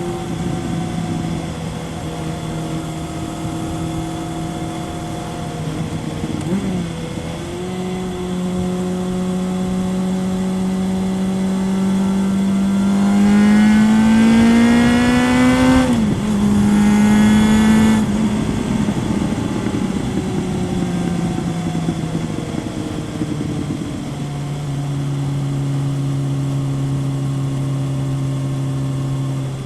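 2000 Kawasaki ZRX 1100's inline-four engine through a Yoshimura exhaust, heard onboard while riding: a steady note with a brief dip about six seconds in, then a rising pull under throttle that is loudest midway and drops suddenly at an upshift. It then eases off and settles to a lower steady note near the end.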